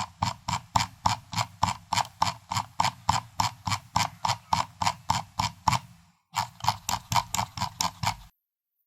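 Computer mouse scroll wheel turned slowly, clicking notch by notch at about three clicks a second, with a brief pause just after six seconds and stopping shortly before the end.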